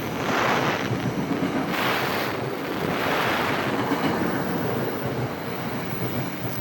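Wind buffeting the microphone in gusts over the continuous rumble of a passing train.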